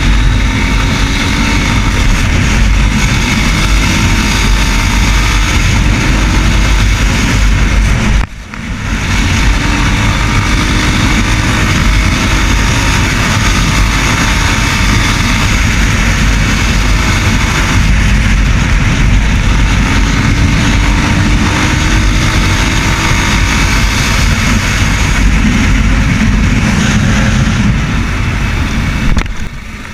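Racer Panther 300 enduro motorcycle engine running while the bike is ridden, its pitch drifting slowly up and down with the revs under a dense rushing noise. The sound drops out sharply for a moment about eight seconds in.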